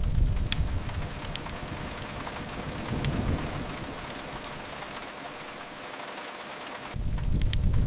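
Steady rain hiss with scattered sharp crackles from a wood fire. A deep low rumble swells at the start, again about three seconds in, and near the end.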